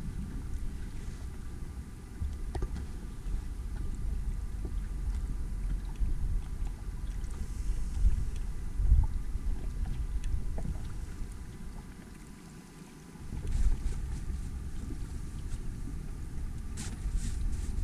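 Wind buffeting the microphone aboard a small sailing inflatable boat: a low rumble that rises and falls, easing off for about a second around two-thirds of the way through, with a few faint ticks.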